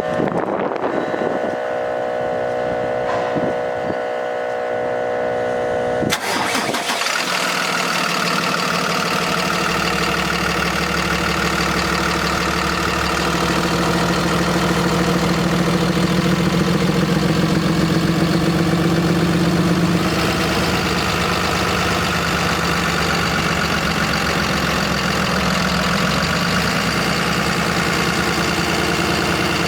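Cummins 6.7L ISB inline-six diesel starting about six seconds in, then idling steadily.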